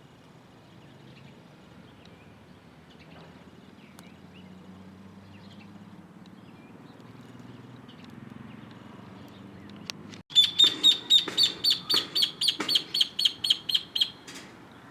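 A bird calling in a fast run of loud, sharp chirps, about six a second, for about four seconds. Before it there is only faint low background noise.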